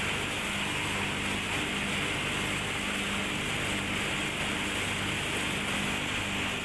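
Ship's engine-room machinery running steadily: a constant low engine hum under an even rushing hiss.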